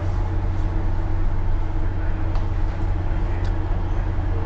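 Steady low machinery hum aboard a tanker, an even drone with no change in pitch.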